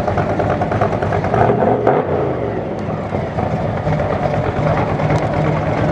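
An antique car's engine running, its pitch rising briefly about two seconds in, then settling to a steady note.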